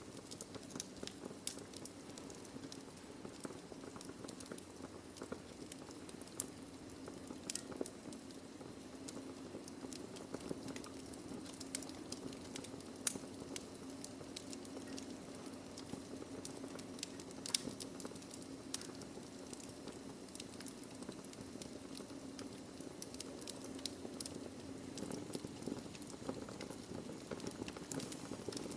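Wood fire burning in a fireplace: logs crackling with frequent sharp pops, irregularly spaced, over a steady low hiss. One pop about halfway through is much louder than the rest.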